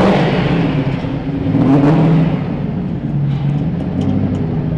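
The engine of a twin-turbocharged and supercharged 1965 Mustang Fastback restomod runs at idle. It is revved at the start and again about two seconds in, then settles back to a steady idle.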